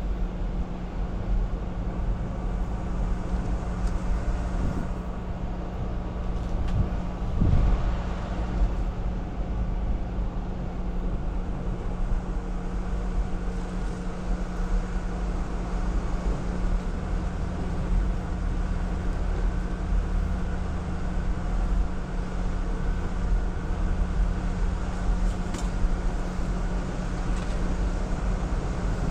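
Jeep Wrangler engine running steadily at low speed on an off-road trail, a constant low drone with heavy rumble and a brief thump about seven seconds in.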